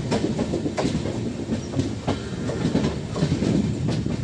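Passenger train running along the track, heard from aboard a moving coach: a steady rumble of the wheels with irregular clicks and clacks as they pass over rail joints.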